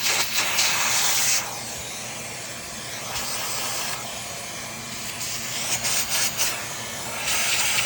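Steady rushing hiss of air from a cleaning tool, growing louder and quieter in stretches of a second or two as it is moved about.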